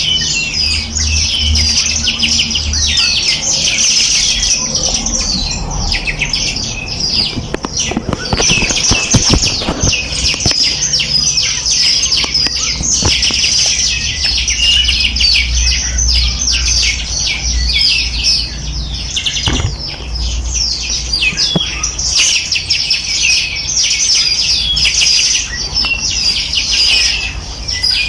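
A dense chorus of many small songbirds chirping and trilling continuously, their high calls overlapping without pause, over a faint low rumble.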